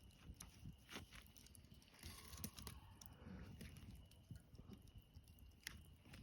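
Near silence with faint, scattered crackles and snaps from a campfire, a few at a time at irregular intervals.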